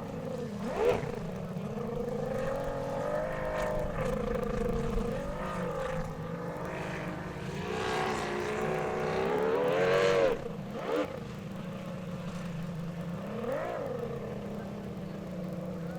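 Racing hydroplane engines running hard, their pitch rising and falling in several sweeps as boats pass; the loudest pass comes about ten seconds in.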